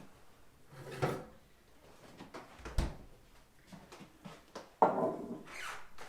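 A few separate knocks and scrapes of objects being handled, the loudest about five seconds in, followed by a brief rustling scrape.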